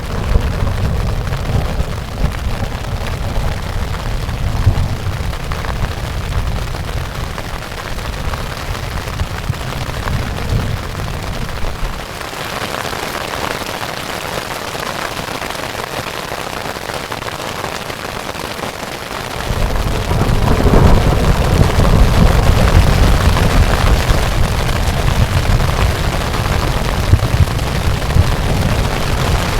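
Rain falling steadily with low thunder rumbling. The rumble fades out for several seconds while the rain goes on, then a louder, longer rumble of thunder comes in about two-thirds of the way through.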